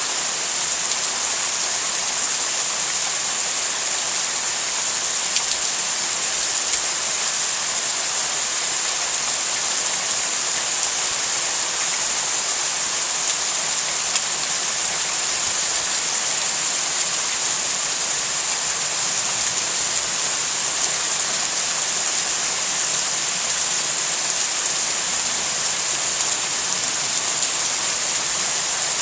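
Heavy rain falling steadily during a thunderstorm, an even hiss of rain on surfaces with a few faint ticks of drops.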